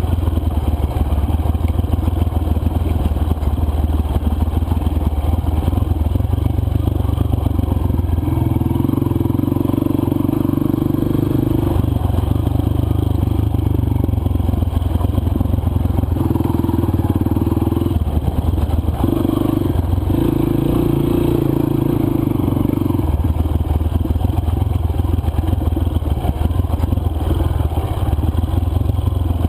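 Four-stroke single-cylinder dirt bike engine running while riding a trail. The note rises and falls as the throttle opens and closes, with a louder, harder-pulling stretch coming in several times for a few seconds each.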